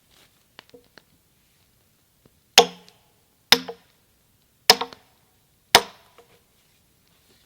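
Sledgehammer striking a steel splitting wedge driven into a chestnut log, four heavy blows about a second apart, each with a brief metallic ring.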